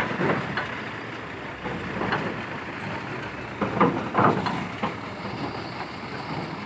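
A piling machine's engine running steadily as the machine comes down off a lorry, with irregular metallic clanks and knocks, a cluster of them about four seconds in.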